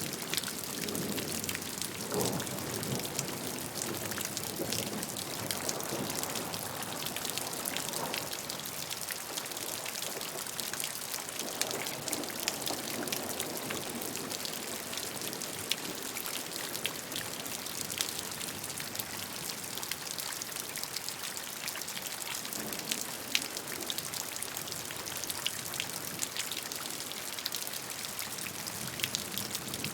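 Steady rainfall, with many separate drops striking close by over an even wash of falling rain; a lower swell of running water comes and goes.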